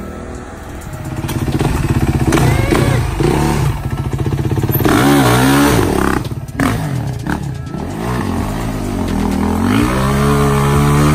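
450cc dirt bike engine revving up and easing off several times, its pitch rising and falling: a quick rise and fall about halfway through and a long climb near the end.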